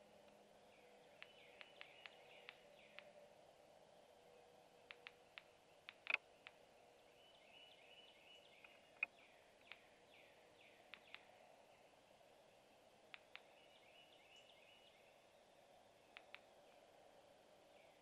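Faint wild birdsong from the surrounding woods: scattered sharp chip notes, the loudest about six and nine seconds in, and three short runs of quick falling notes.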